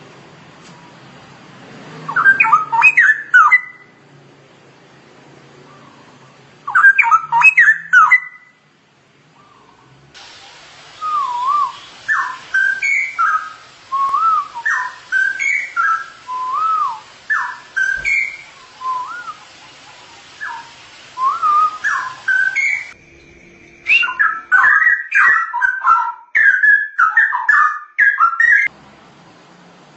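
Straw-headed bulbul singing rich, fluid whistled song. It gives two short dense bursts, then a string of separate gliding whistled phrases about one a second, and ends in a faster, denser stretch of warbling.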